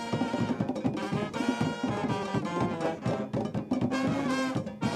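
Cuban conga band music: a brass section plays a melody in held notes over driving drums and percussion.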